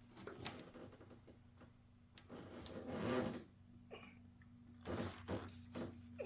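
Handling of a plastic 5-quart motor oil jug as the oil pour into the funnel begins: scattered clicks and short rustling, plastic-handling sounds, loudest about two to three seconds in and again near the end.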